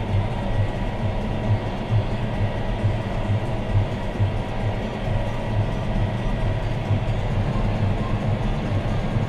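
John Deere 6215R tractor's six-cylinder diesel engine running steadily while pulling a plough, heard from inside the cab as an even drone with a fast low pulse.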